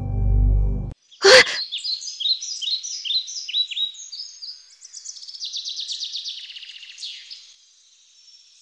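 Songbirds singing: a string of quick high chirps and a fast trill. Just before it, about a second in, low dark music cuts off and a short sharp sound is heard.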